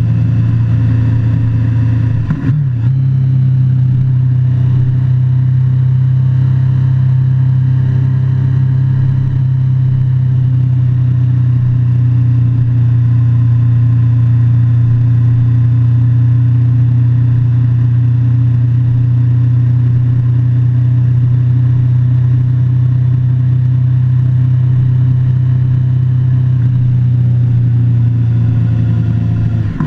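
Motorcycle engine running at a steady speed while riding, with a brief dip and change in pitch about two seconds in.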